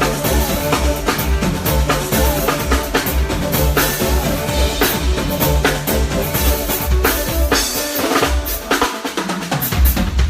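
Live band playing: a drum kit with kick, snare and rimshots keeps a steady beat under a pulsing bass line and held chords. The bass and kick drop out briefly about eight seconds in and come back just before the end.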